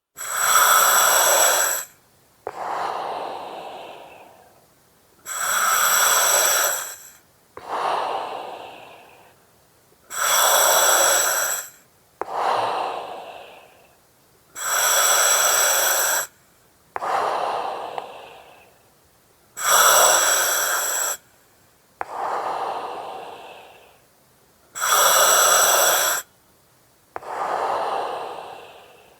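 Slow, even breathing through an oxygen mask, about six breaths. Each breath is a loud hiss of about a second and a half that starts and stops abruptly, followed by a softer hiss that fades away, repeating about every five seconds.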